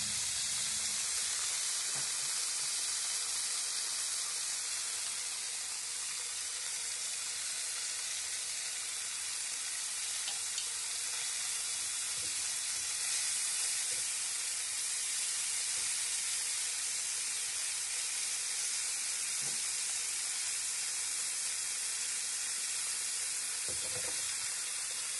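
Marinated chicken breast sizzling steadily in oil and marinade sauce in a non-stick frying pan, with a few faint ticks.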